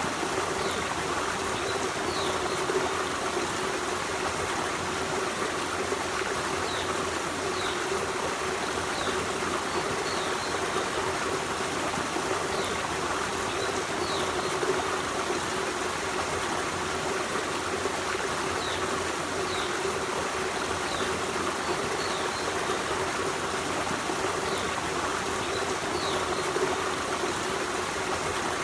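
Forest stream running steadily, an even rush of water. Faint short high chirps sound now and then over it.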